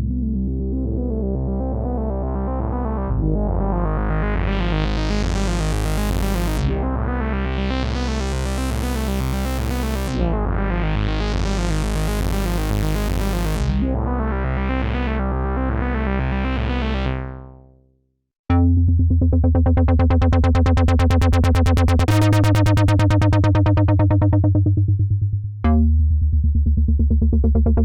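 Sequential Fourm four-voice analog poly synthesizer playing factory presets dry, with no effects. First a held bass note under a rippling arpeggiated pattern, its filter sweeping open and closed four times before the sound fades out. After a brief gap a different, buzzier preset starts: low chords with a fast pulsing rhythm, struck anew twice.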